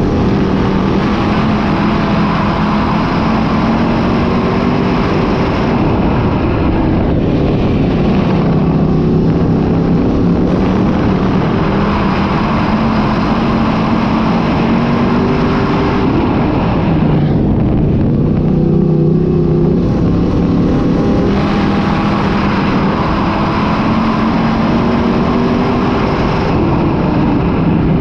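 Dirt-track modified race car engines running hard around the oval. The engine pitch drops off and climbs back up a couple of times, as the throttle is lifted and reapplied through the turns.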